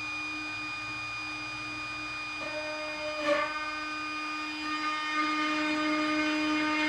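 Cordless plunge router running with a steady whine. A short knock comes about halfway through, and the router grows louder near the end as it bores a dowel hole into the wood.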